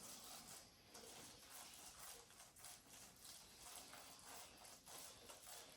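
Very faint, irregular light taps and scrapes of a utensil spreading cooked rice pilaf thin on a dehydrator tray.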